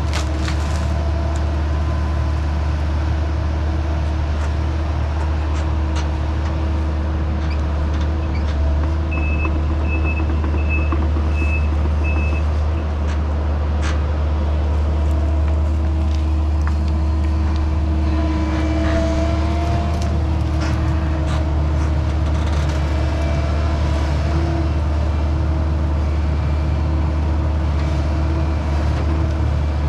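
Excavator's diesel engine running steadily, with scattered knocks and clanks and a run of five short beeps about nine seconds in.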